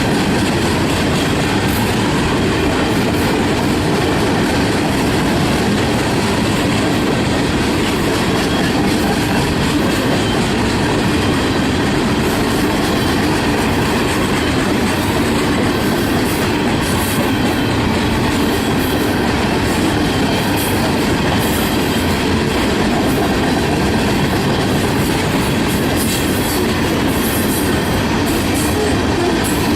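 Freight train cars rolling past: a steady, unbroken rumble of steel wheels on rail.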